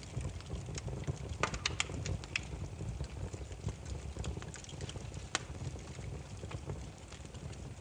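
Burning firewood crackling: irregular sharp pops and snaps over a low steady rumble of flames, with a quick run of pops about a second and a half in and one loud snap a little past five seconds.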